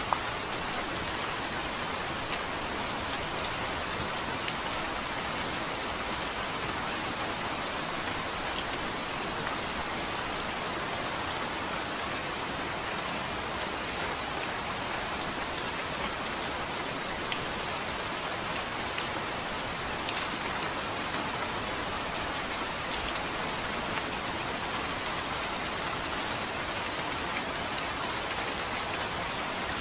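Steady rain falling, an even hiss of drops with a few sharper single drop hits.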